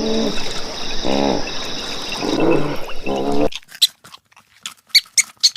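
Four short pitched animal calls, then after a sudden cut a series of brief high squeaks and clicks from a small animal.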